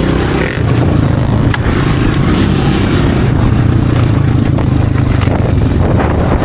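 Motocross dirt bike engine running loud at fairly steady revs.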